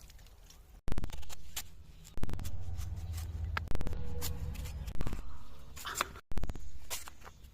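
Handling noises from food being prepared: a sharp knock or clatter every second or so, with rustling between them.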